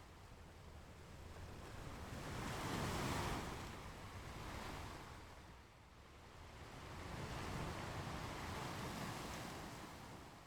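Ocean waves washing on a beach, the surf swelling and falling away in slow surges, loudest about three seconds in and again near eight seconds.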